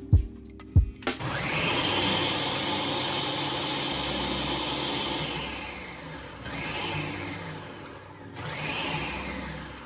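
Electric blender puréeing a liquid marinade. There are a couple of knocks, then the motor spins up about a second in and runs for about five seconds, followed by two short pulses that rise and fall.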